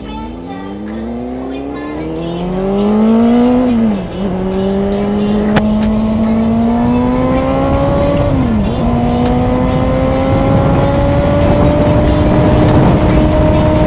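Motorcycle engine accelerating hard through the gears, its pitch climbing steadily. It dips sharply as it shifts up about four seconds in and again a little past eight seconds.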